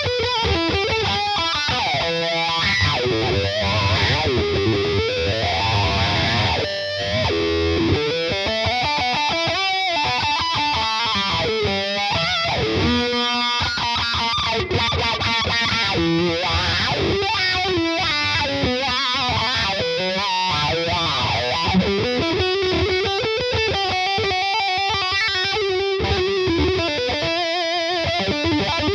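Electric guitar played through a Hotone Soul Press wah pedal, its resonant peak sweeping up and down again and again as the pedal is rocked.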